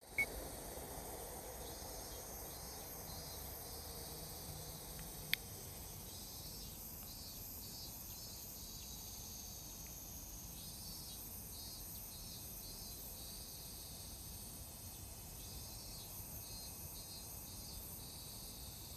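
Summer insect song: a steady high shrill underneath, with a rapidly pulsing insect call that comes in phrases of about two seconds, repeating every four to five seconds. A single sharp click about five seconds in.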